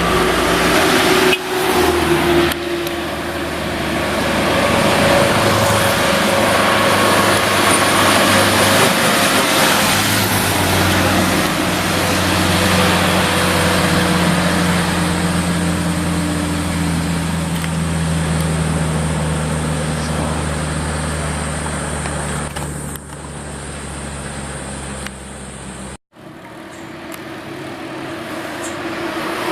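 Heavy truck engine working hard along with road noise as trucks pass, the engine note slowly falling. The sound breaks off abruptly near the end, then traffic noise builds again.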